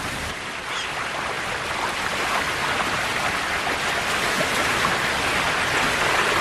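Rushing river water: a steady hiss of fast-flowing rapids that grows slowly louder.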